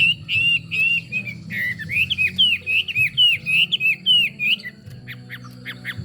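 Chinese hwamei singing: a run of loud slurred whistled notes, each bending down and back up, about two a second, breaking near the end into a quick series of short, sharp notes.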